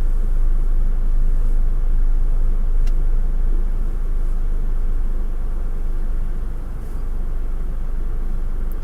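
Steady low rumble of a car heard from inside its cabin, its engine running, with one faint click about three seconds in.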